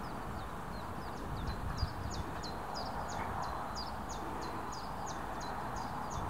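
A small songbird singing a quick string of high, repeated two-note phrases, about three notes a second, growing louder after the first second, over steady outdoor wind noise.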